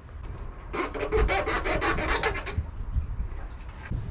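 A quick run of rasping, scraping strokes, about six a second, lasting about two seconds.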